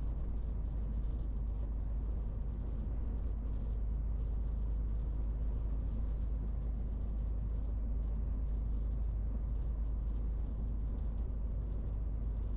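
MAN TGX 18.470 truck's six-cylinder diesel running under way with road noise, a steady deep rumble that stays even throughout.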